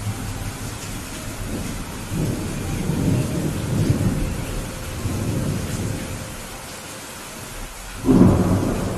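Steady rain with thunder. A low rolling rumble swells and fades through the middle, and a louder clap of thunder breaks in suddenly near the end.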